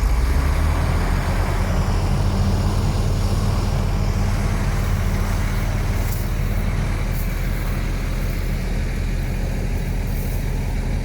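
Heavy diesel engine of earthmoving machinery running with a steady low drone, a little harder in the first couple of seconds, then easing slightly.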